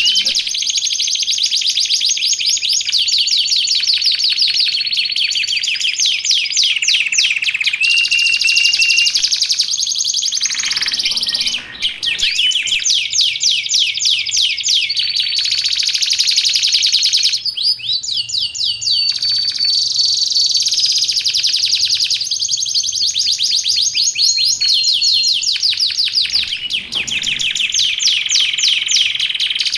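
Canary singing a long, continuous song of rapid trills, with a few held whistled notes in between and short breaks about 12 and 18 seconds in.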